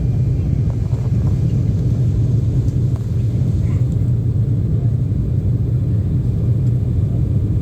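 Cabin noise inside a KLM Cityhopper Embraer regional jet during takeoff: a steady low rumble of the turbofan engines and airflow, heard from a window seat.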